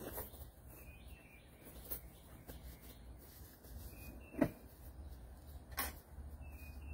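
A small bird chirping, short high calls repeated every second or two, over a low steady rumble. Two sharp knocks stand out, one a little past halfway and one near the end.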